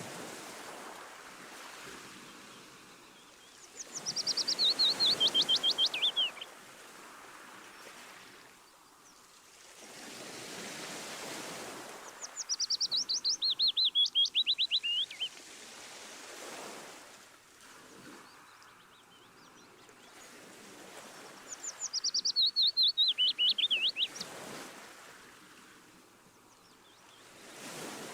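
A songbird singing three times, each song a fast run of chirps stepping down in pitch and lasting a couple of seconds, over waves washing in and out.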